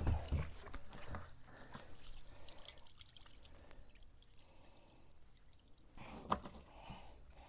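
Water pouring and trickling as a Polaris Ranger fuel tank is rinsed out to flush mud and muck from it, with a low thump right at the start and a sharp knock about six seconds in.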